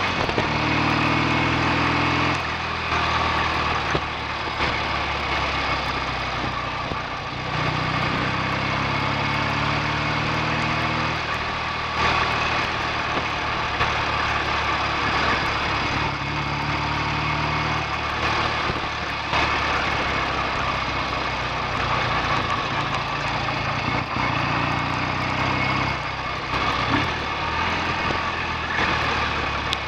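BSA A65 650 parallel-twin motorcycle engine under way. Its pitch climbs as it pulls and drops back several times, as with throttle changes or gear changes.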